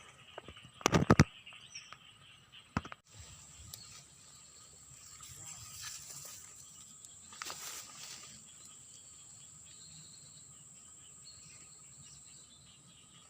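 Outdoor ambience with a few sharp knocks and clicks about a second in, then a steady high insect drone that begins abruptly about three seconds in.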